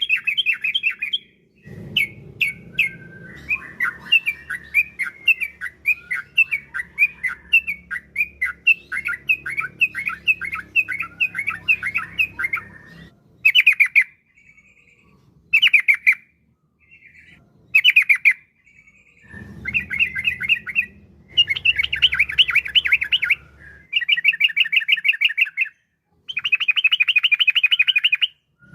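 Yellow-vented bulbul (trucukan) singing in fast, chattering phrases. There is a long run of notes at first, then a few short bursts, then rapid rolling trills near the end.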